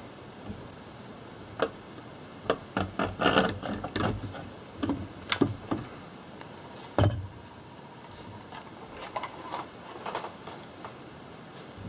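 Irregular clicks, taps and knocks of parts and hand tools being handled during engine work, in loose clusters, with one louder knock about seven seconds in.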